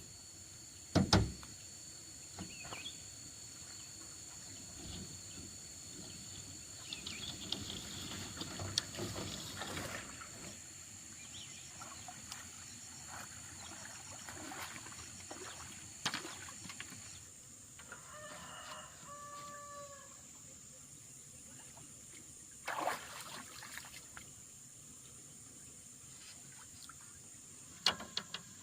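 A rooster crowing once, a short call about two-thirds of the way through. Around it are a few sharp knocks and a steady high-pitched hum.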